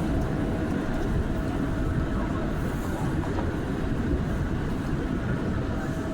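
Inside an R179 subway car running between stations: a steady rumble of the wheels on the rails, with a faint steady whine that drops away after about a second and comes back near the end.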